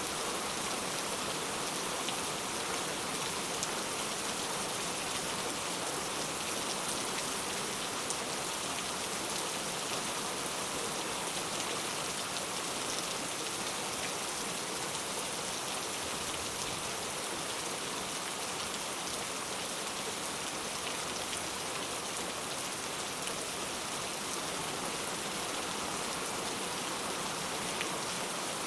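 Steady rainfall: an even hiss of rain with scattered drops ticking on a surface.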